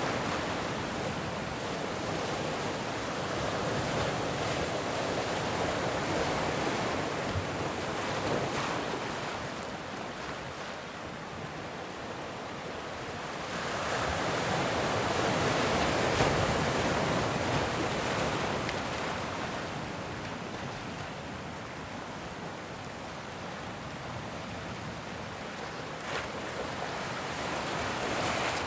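Ocean surf: a continuous rush of breaking and washing waves that swells and eases in slow surges, each lasting several seconds.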